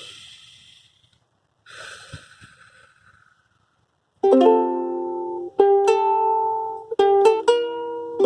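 Two short, soft hissy noises, then a ukulele strummed in chords from about four seconds in, each chord struck sharply and left to ring before the next.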